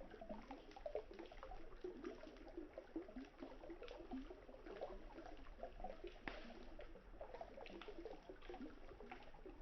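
Wood campfire crackling with scattered small pops over the steady burble of river water; one sharper pop about six seconds in.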